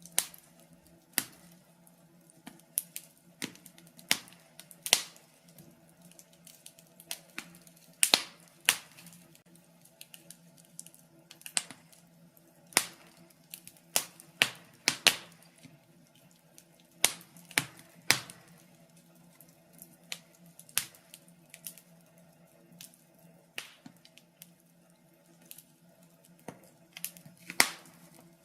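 Wood fire crackling in a fireplace: irregular sharp pops and snaps at uneven intervals, some much louder than others, over a faint steady hum.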